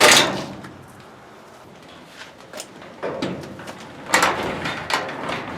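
Garage door rollers running along the metal track as the door is moved, rattling past the newly fitted round-headed bolts. There is a loud clatter at the start, then two more rattling runs about three and four seconds in.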